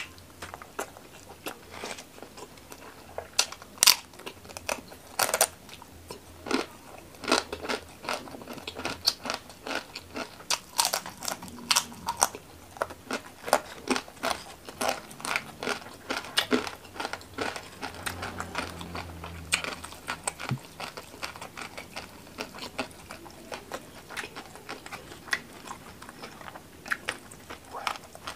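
Close-miked mukbang eating: rapid, irregular crisp crunches and wet chewing sounds as a man eats rice by hand with crispy rempeyek crackers and spicy banana-leaf pork.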